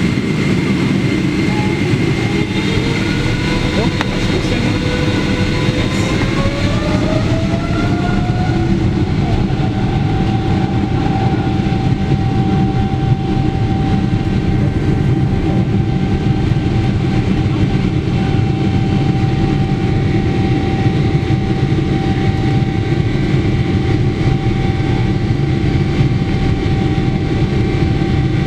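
Boeing 777-300ER's GE90 engines heard from inside the cabin, spooling up to takeoff thrust: a whine rises over several seconds and then holds steady. Beneath it is a heavy rumble of the airliner rolling down the runway.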